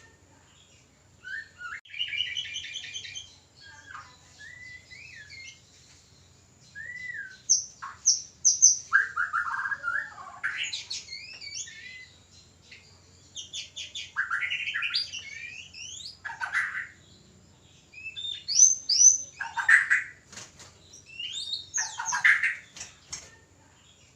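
White-rumped shamas giving mating-season calls: short bursts of varied whistles, chirps, a rapid trill and harsh notes, with brief pauses between phrases.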